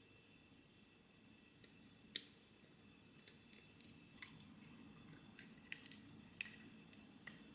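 Quiet kitchen handling: scattered light clicks and taps, one sharper click a couple of seconds in, then a string of lighter ticks over a faint low hum.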